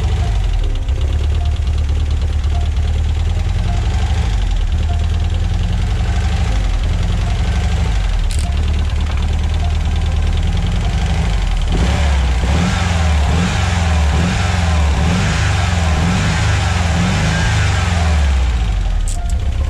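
1985 Volkswagen Vanagon's freshly rebuilt 1.9-litre WaterBoxer flat-four engine running steadily. From about halfway through, its speed rises and falls over and over, then settles near the end.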